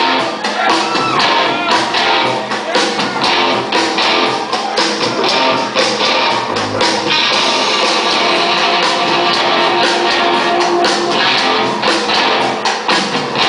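Live rock band playing an instrumental intro: strummed electric guitar over drums with a steady beat, loud and full.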